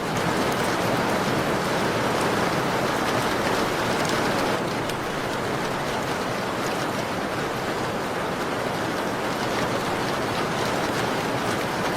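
Steady rain on a window pane: a dense, even hiss with faint scattered sharp ticks, easing slightly about four and a half seconds in.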